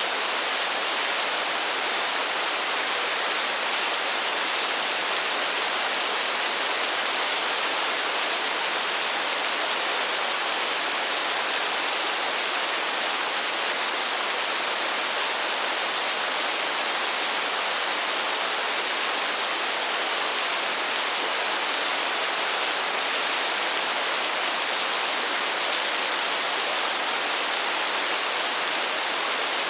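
Steady, even rain falling in a forest: a constant dense hiss with no single drops standing out and no change in level.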